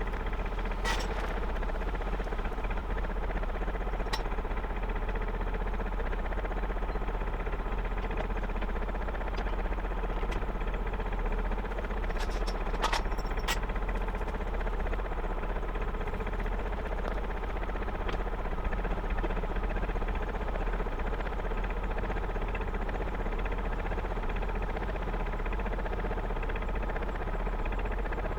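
Gardner 2LW two-cylinder diesel engine of a narrowboat running steadily with a slow, even knock. A few sharp clicks come about a second in, about four seconds in, and around thirteen seconds in.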